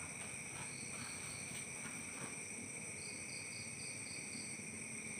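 Steady high-pitched chirring of crickets, several insects singing at once, with a few faint clicks in the first couple of seconds and a short run of quick, higher chirps about three seconds in.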